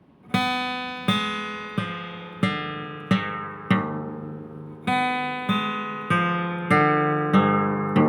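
Background music: a guitar strumming ringing chords, about one strum every two-thirds of a second, with a slightly longer pause near the middle.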